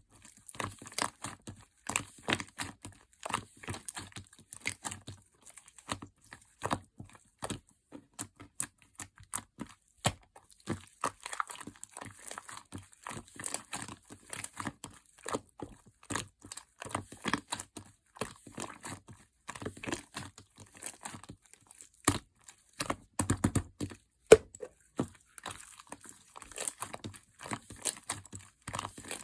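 Hands squishing, folding and stretching a mixed marbled slime, giving dense irregular sticky clicks and crackles.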